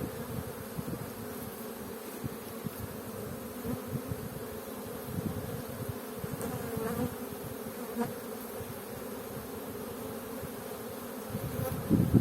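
Honeybees humming around an opened hive during a frame inspection: a steady buzz with small irregular knocks, growing louder in the last second.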